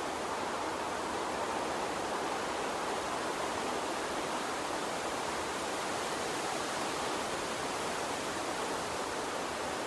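Gentle water stream flowing: a steady, even rush with no distinct splashes or other events.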